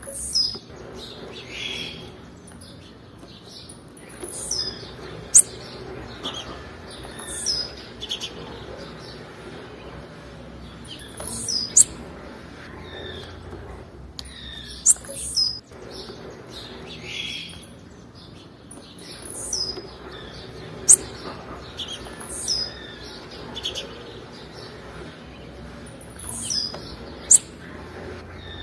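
Blue-black grassquit (tiziu) calling: short, sharp, high-pitched chirps repeated every one to three seconds, over a faint steady low hum.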